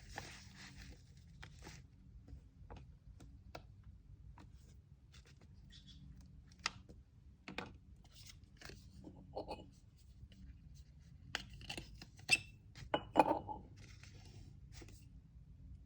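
Hands handling packaging materials on a table: scattered light taps, clicks and paper rustles, with a few louder knocks and a short rustle about twelve to thirteen seconds in, over a low steady hum.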